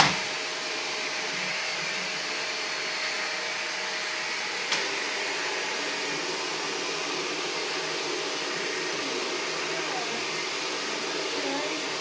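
Vacuum cleaner running steadily, with a faint steady whine over its motor noise. There is a sharp knock at the start and a smaller one about five seconds in.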